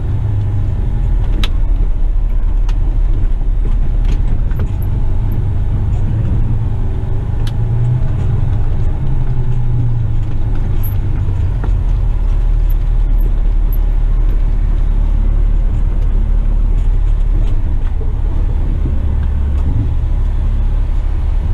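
Western Star tipper truck's diesel engine and drivetrain droning in the cab while driving, a steady low rumble that rises and falls a little in pitch, with a couple of sharp clicks.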